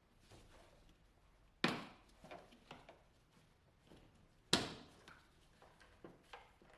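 Two sharp knocks about three seconds apart, each followed by a few lighter clicks and clatter.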